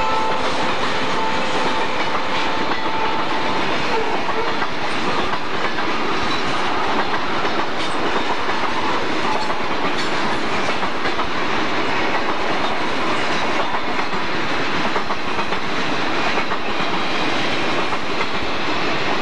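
Cars of a long mixed freight train (boxcars, tank cars, covered hoppers) rolling past close by, a steady loud rumble with the clickety-clack of wheels over the rail joints.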